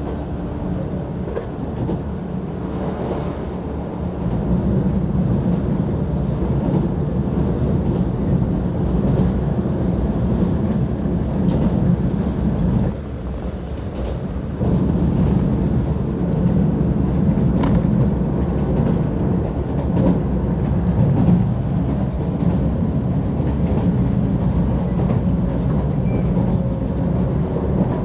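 A JR 185 series electric train running along the line, heard from inside the passenger car: a steady low rumble with occasional faint clicks, briefly quieter a little under halfway through.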